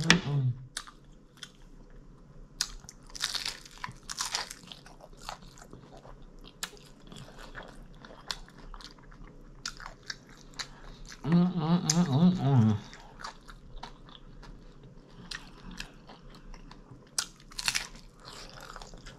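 Close-miked mukbang eating: crisp biting and wet chewing of crunchy fried food, shrimp egg rolls and wingettes, with sharp crackles and smacks throughout. About eleven seconds in there is a loud hummed vocal sound lasting a second or so.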